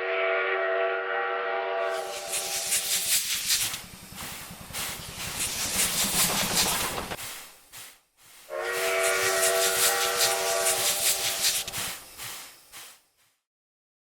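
A train sounds a steady horn blast of about three seconds, joined by the rattling rumble of the train running past, which goes on after the horn stops. The same horn and passing rumble come again about eight and a half seconds in.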